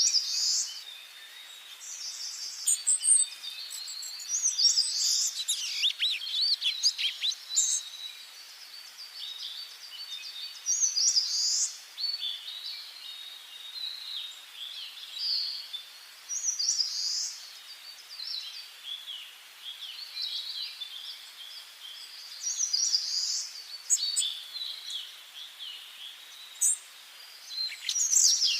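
Songbirds singing in a forest, short chirping phrases every second or two over a faint steady hiss.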